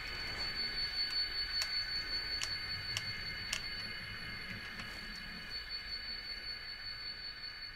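Model train running on the layout: a steady motor whine with light clicks of the wheels over rail joints, about half a second to a second apart. A low rumble fades out about five seconds in.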